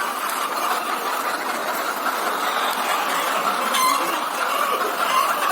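Dense, steady chorus of many laying hens clucking and squawking together in the shed, with a brief sharp rattle about four seconds in.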